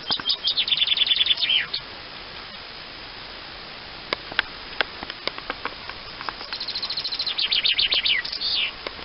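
A songbird singing twice, each phrase a fast run of repeated notes ending in a falling flourish, with scattered short calls or clicks in the gap between.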